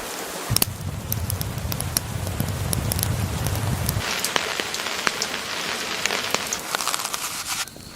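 Steady rain with sharp ticks of drops striking a surface, under a low rumble of thunder that stops about four seconds in; the rain then sounds brighter and hissier until it cuts off abruptly just before the end.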